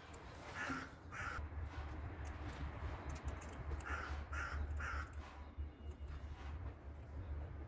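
A bird calling outside: five short calls, two about a second in and three more around four to five seconds in, over a low steady hum.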